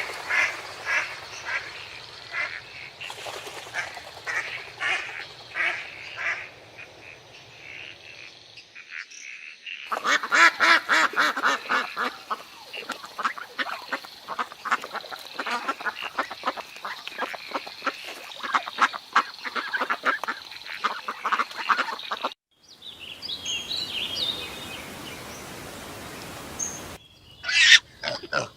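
Domestic waterfowl calling over and over in a flock, heard in several cut-together clips, with the densest calling in the middle and loud calls near the end.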